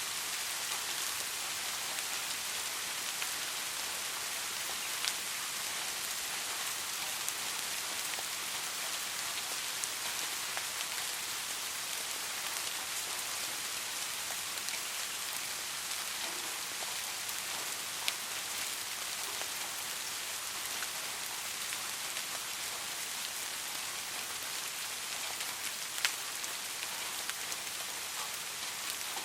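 Steady soft rain falling, an even hiss with occasional single louder drops ticking, about three of them standing out.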